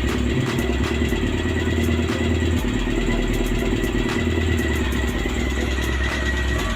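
Honda CB400 Super Four inline-four engine idling with a loud mechanical ticking clatter over its running. The mechanic suspects the noise is the timing chain.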